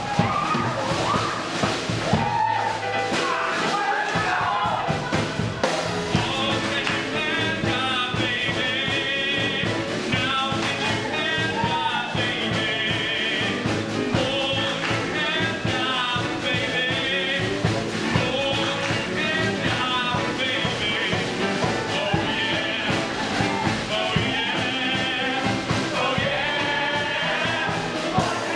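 Rock-and-roll song with singing and a steady driving beat, from a musical's band and cast.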